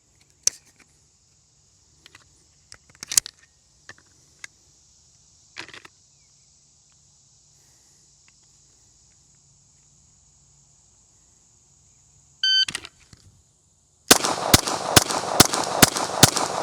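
A few scattered single gunshots, then a shot-timer beep about twelve and a half seconds in, followed a second and a half later by a rapid string of about six pistol shots in roughly two seconds: a bill drill at 25 yards.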